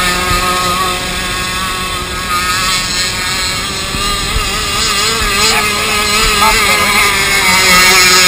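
Radio-controlled model boat's small engine running at high revs, its pitch wavering up and down. It gets louder toward the end.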